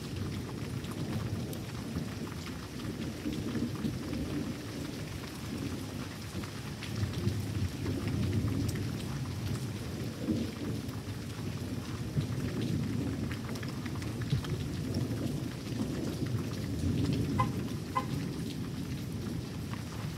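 Steady rain falling through a thunderstorm, with low rolling thunder rumbling continuously, swelling and fading in waves.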